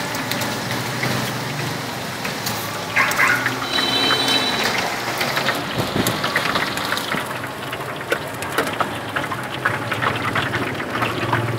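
Battered food deep-frying in a steel pan of hot oil: a steady sizzle and crackle. A brief metallic clink sounds about four seconds in.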